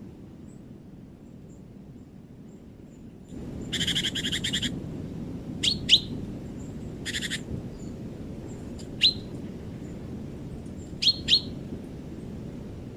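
Small forest birds calling: two short, rapid rattling trills and several sharp, downward-sweeping chip notes, some in quick pairs, over a steady low background hiss.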